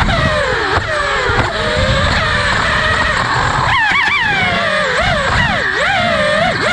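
FPV freestyle quadcopter's brushless motors whining, the pitch swooping up and down quickly as the throttle is punched and chopped. There is a noisy rush underneath.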